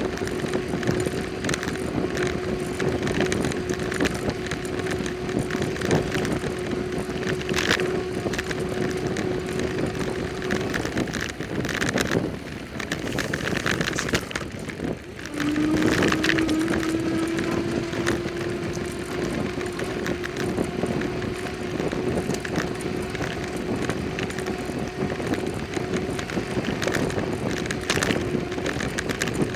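Bicycle riding along the road: steady wind and road noise with a level whine. The whine stops about eleven seconds in and returns a few seconds later, rising in pitch as the bike picks up speed.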